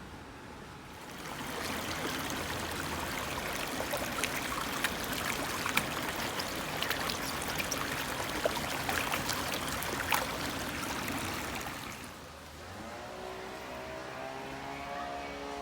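Small stream trickling and babbling, a busy rush of water with many small splashes, that fades out about twelve seconds in. It gives way to a steady low hum of several pitches.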